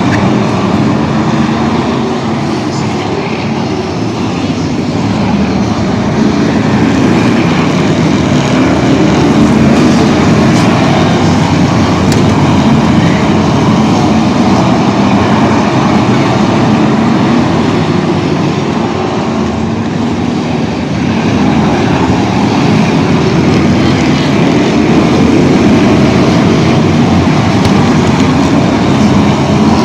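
Loud, continuous motor-vehicle engine and road noise, slowly swelling and easing off.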